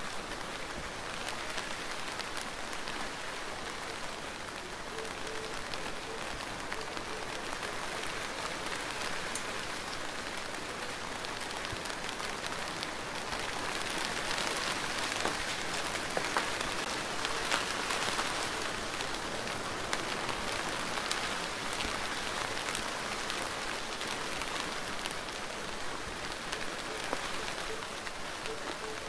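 Steady rain falling: a continuous hiss dotted with the ticks of single drops, growing a little heavier in the middle.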